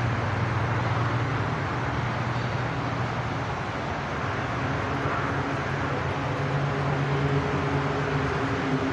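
Steady highway traffic noise, cars going by. About halfway through, a low, steady engine drone from a passing vehicle rises above it.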